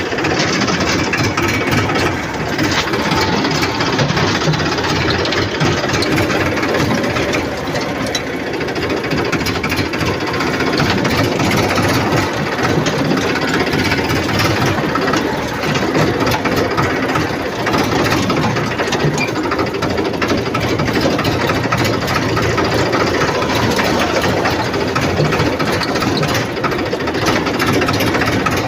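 Tractor engine running steadily and loudly, with a knocking beat.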